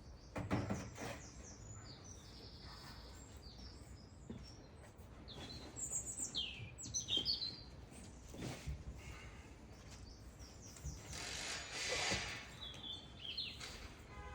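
Small birds chirping in short, quick high phrases, several times over. There are a couple of light knocks, and a brief rush of noise comes shortly before the end.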